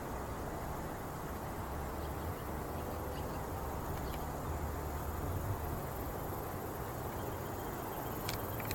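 Steady outdoor background noise: a low rumble with a faint high insect-like whine that grows slightly near the end, and a few sharp clicks near the end.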